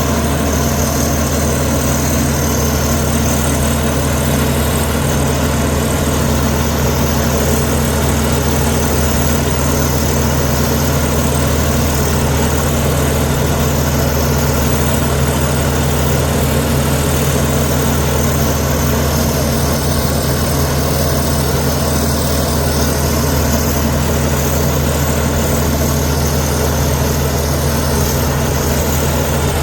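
Heavy diesel engine of a Komatsu D61EX crawler bulldozer running steadily at a constant speed, its low drone even and unchanging.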